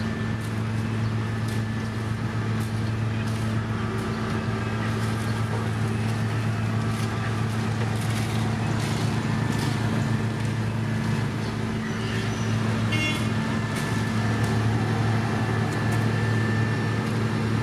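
Diesel engine of heavy road-construction machinery running steadily at an even pitch, with scattered light clicks over it.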